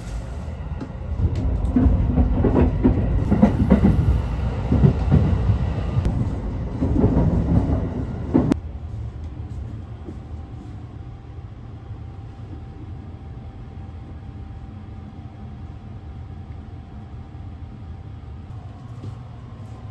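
Interior noise of the Sunrise Express sleeper train: a loud rumble full of rattles and clatter for the first several seconds, cutting off sharply about eight and a half seconds in. After that a steadier, quieter low rumble and hum.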